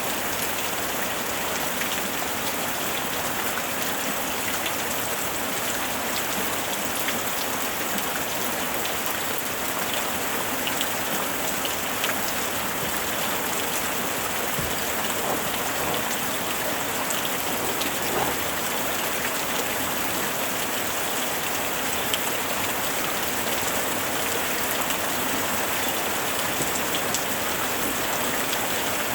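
Steady rain falling, an even hiss with scattered small drop ticks throughout.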